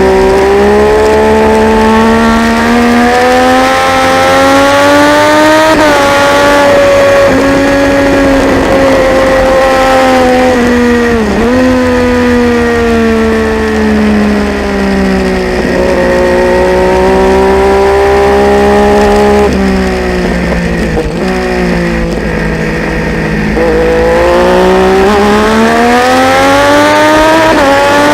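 Triumph Daytona 675's inline three-cylinder engine at racing speed, its revs rising and falling in long sweeps and broken by sharp, brief dips in pitch at gear changes. About two-thirds of the way through it runs lower, with several quick dips close together, then climbs steadily again near the end.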